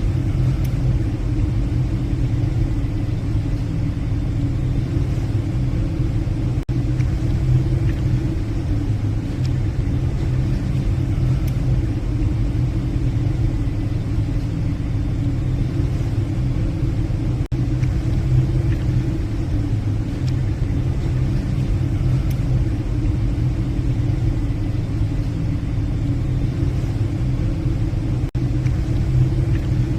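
Steady low drone of a passenger ship's engines, heard on the bridge while under way.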